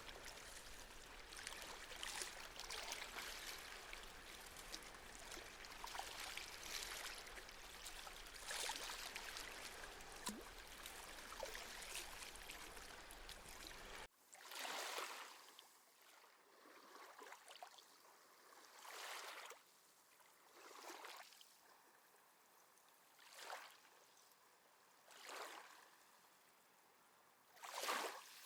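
Small sea waves washing on a shore: a continuous wash of water for about half the time, then an abrupt cut to a quieter stretch where separate small waves lap in roughly every two seconds.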